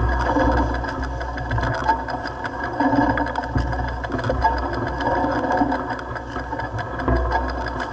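Mountain bike rattling fast over a rough downhill trail: a rapid clatter of the bike's parts over a steady low rumble.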